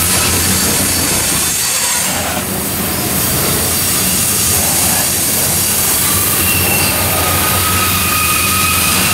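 Freight train of ethanol tank cars rolling past, a steady rumble of steel wheels on the rails. A thin, high wheel squeal comes in about two-thirds of the way through.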